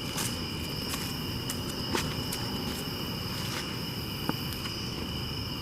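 Footsteps crunching with scattered clicks, over a steady high trill of insects.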